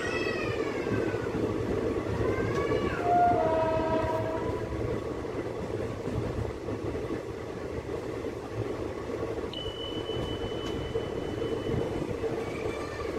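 A passenger train running, heard from an open coach doorway: the steady rumble of the coaches rolling on the rails, with wind. In the first four seconds come a few long pitched tones that slide in pitch. About ten seconds in, a thin high steady tone sounds for about two seconds.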